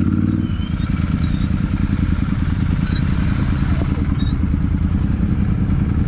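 Royal Enfield Super Meteor 650's 648 cc parallel-twin engine heard through its exhaust, a steady low pulsing as the bike is ridden at an even pace. A few faint high chirps sound over it, once near the start and again around the middle.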